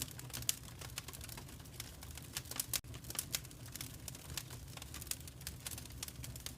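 Wood fire in a fireplace crackling: quick, irregular pops and snaps over a low, steady rumble of burning.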